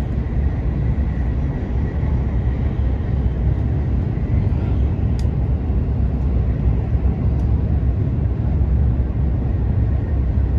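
Hokuriku Shinkansen train running at speed on a viaduct, heard from inside the passenger cabin as a steady, deep rumble with a faint high whine.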